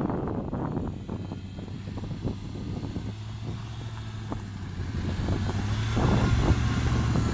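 Jeep Grand Cherokee ZJ's 5.2-litre V8 engine running, a steady low hum that grows louder about six seconds in. Scattered knocks and clatter in the first second, with a few single knocks later.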